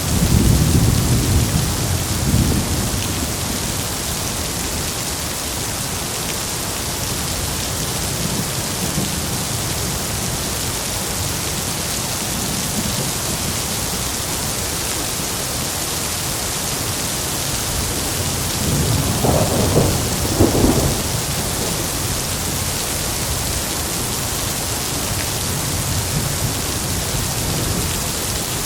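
Steady heavy rain with rolling thunder: a rumble at the start that fades within about three seconds, and a second, stronger rumble with two sharp peaks about two-thirds of the way through.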